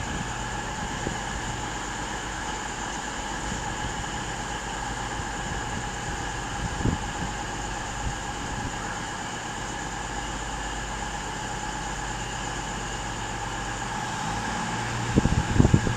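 Two coupled Class 221 Voyager diesel-electric units pulling out, their engines and traction running steadily with several held whining tones. A few short low bumps near the end.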